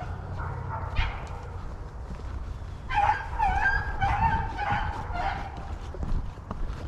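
A rabbit-hunting hound giving tongue in a run of drawn-out baying cries about three seconds in: the dog is on a rabbit's scent and running the track. A steady low rumble sits underneath.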